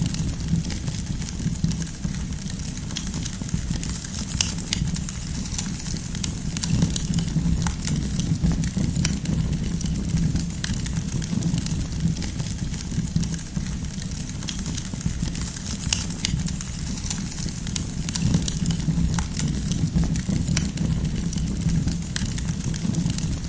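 Wood fire burning steadily, with frequent sharp pops and crackles from the burning firewood over a low, even rumble of the flames.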